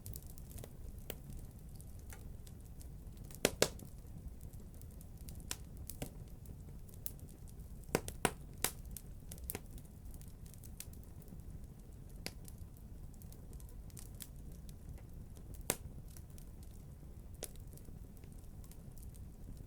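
Wood fire crackling in a fireplace: scattered sharp pops and snaps over a low steady rumble, with a few louder snaps.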